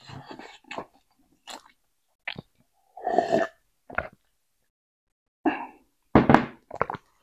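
Close-miked eating sounds: a person chewing, with short separate mouth noises and pauses in between, the loudest about six seconds in.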